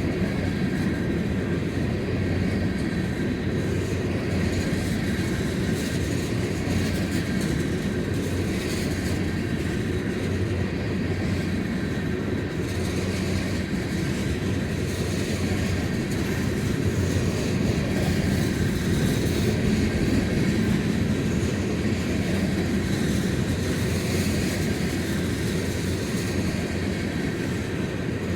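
Empty freight train cars, boxcars and jumbo tank cars, rolling steadily past on the rails with a continuous low rumble of wheels on track.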